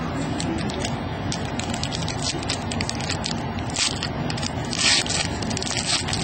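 Trading card pack wrapper crinkling and tearing as it is opened and the cards are handled: a run of crackling clicks and rustles, with two louder, longer crinkles about four and five seconds in.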